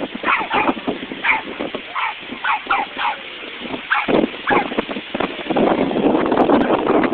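Dogs barking: a string of short, separate barks over the first four or five seconds, followed by a steady rushing noise near the end.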